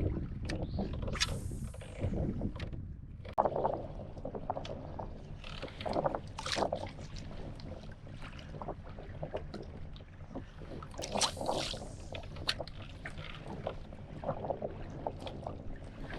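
Water lapping and splashing around a Hobie Pro Angler 12 kayak, with irregular knocks on the hull under a steady low hum.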